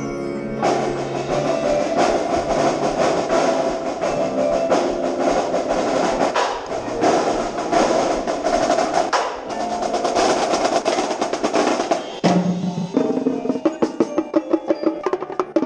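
Marching percussion ensemble playing: snare drum rolls and marching tenor drums (quints) over sustained pitched mallet and keyboard notes. About twelve seconds in the music changes to fast, evenly repeated drum strokes.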